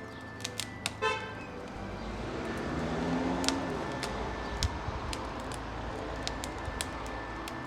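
Bonfire crackling with irregular sharp pops, a short horn-like toot about a second in, and a vehicle passing, swelling and fading around the middle.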